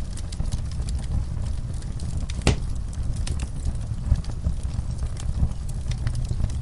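Wood fire crackling with scattered pops over a steady low rumble, one sharper pop about two and a half seconds in.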